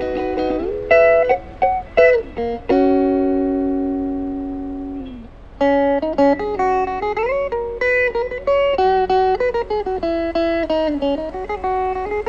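Background guitar music: plucked notes, a chord left to ring and fade for a few seconds, then a picked melody again.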